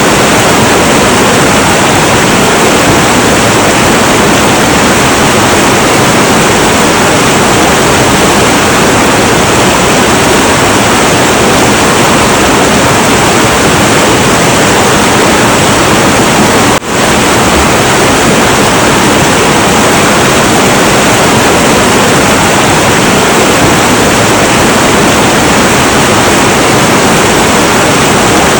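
Heavy, turbulent river water rushing in a loud, steady roar, with a brief momentary drop in level a little past halfway.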